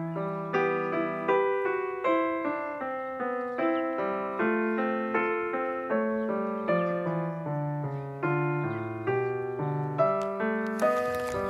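Piano music: single notes and chords struck one after another about twice a second, each ringing and fading. Near the end a burst of scratchy noise comes in over it.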